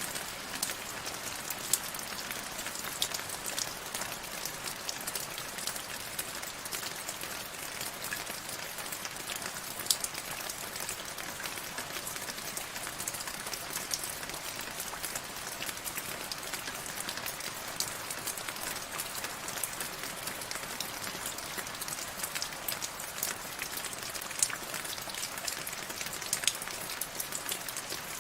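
Steady rain falling, a dense even hiss with many sharp individual drop ticks scattered through it.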